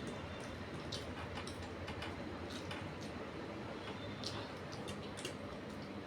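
Eating sounds of a meal of rice and fish curry: scattered small, sharp clicks of chewing and mouth noises, irregular at about one or two a second, over a low steady background hum.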